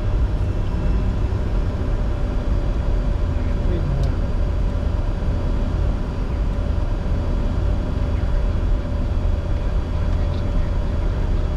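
Steady cockpit noise of a Bombardier Challenger 605 business jet in the climb after takeoff: a low rumble of airflow and engine noise with a faint steady whine over it.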